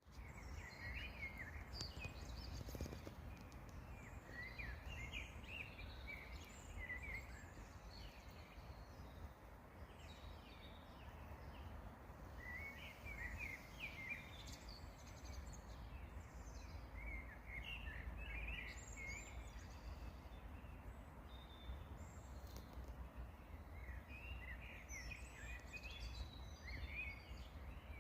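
Songbirds singing in short, twittering phrases that come and go in clusters, over a faint steady low rumble.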